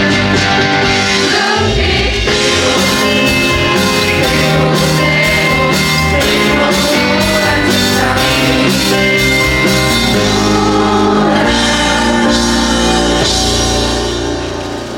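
A theatre audience singing a song in unison over instrumental accompaniment with a steady beat; the music dies down near the end.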